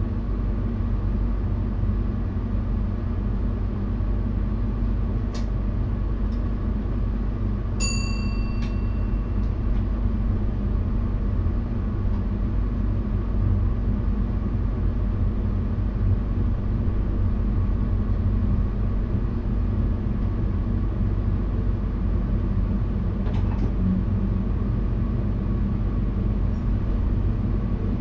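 Steady rumble of an NS VIRM double-deck electric train running along the track, heard inside the driver's cab. A short ringing chime sounds about eight seconds in.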